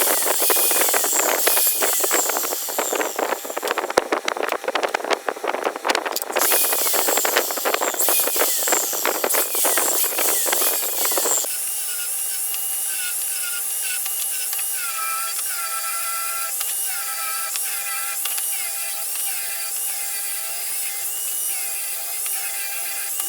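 Woodworking tools working pine: first a dense, irregular rasping and scraping of a tool cutting or rubbing the wood, then, after an abrupt change about halfway through, a small power tool's whine that rises and falls in pitch over and over.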